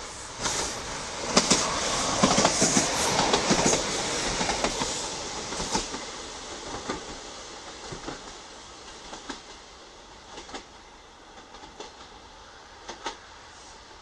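East Midlands Trains Class 156 diesel multiple unit passing below and running away: a rush of wheel and rail noise with sharp wheel clicks, loudest in the first few seconds. It then fades steadily as the train recedes, with scattered clicks continuing.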